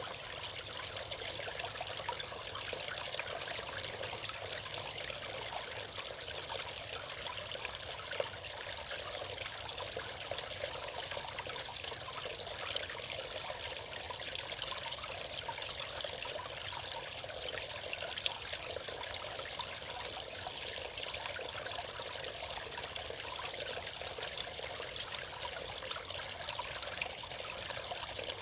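Water from a small forest spring spilling over a little cascade into a brook, a steady trickling splash.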